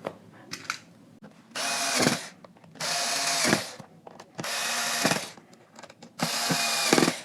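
Electric screwdriver driving screws into the speaker's housing: four short runs of the motor whining, each under a second, with pauses between them.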